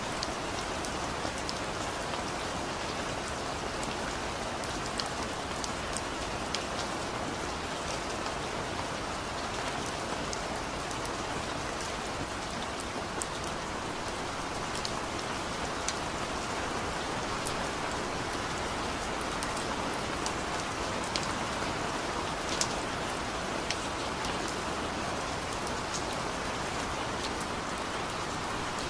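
Steady rain: an even hiss of falling rain with scattered sharp ticks of single drops.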